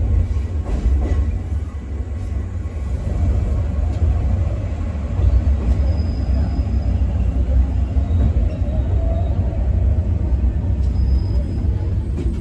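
Choshi Electric Railway train running, heard from inside the passenger car: a steady low rumble of wheels on the rails and the running gear, with a few faint knocks about a second in.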